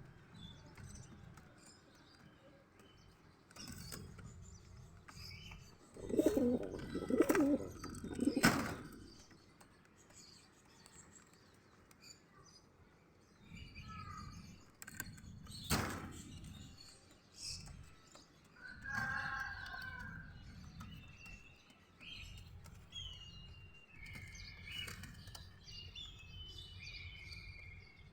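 Domestic pigeons cooing and flapping their wings, with three strong low calls close together about a quarter of the way in and a sharp knock around the middle. Thin, high chirps come in near the end.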